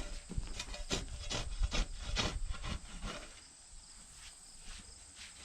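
Shovel digging and scraping into old sawdust and dirt: a quick run of uneven scrapes and crunches over the first three seconds, then quieter.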